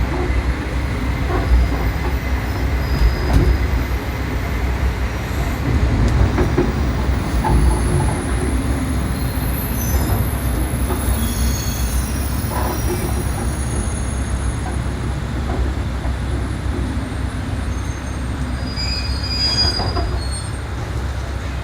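KiHa 37 diesel railcar running on the line, a steady low rumble of engine and wheels on the rails, with a few faint short high squeals.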